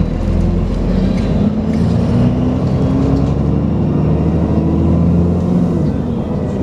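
Dennis Trident 2 double-decker bus with Alexander Enviro 400 body, its engine pulling under load with the vacuum-cleaner-like 'hoover' whine. The engine note climbs twice in pitch, dropping back in between.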